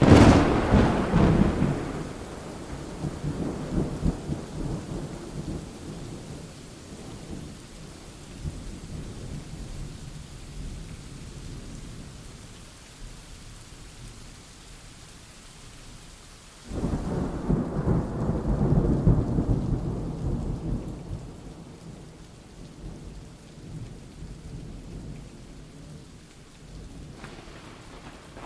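Thunderstorm: steady rain with rolling thunder. A loud clap right at the start rumbles away over a few seconds, and a second roll of thunder starts suddenly about two-thirds of the way through.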